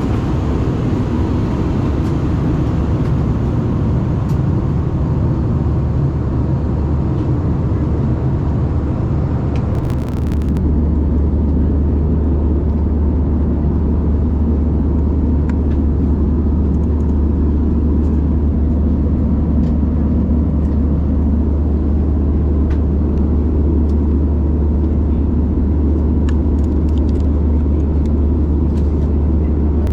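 Steady low rumble of an Airbus A320's engines and airflow heard in the passenger cabin. About ten seconds in there is a brief break, after which the rumble turns into a deeper, slightly louder drone.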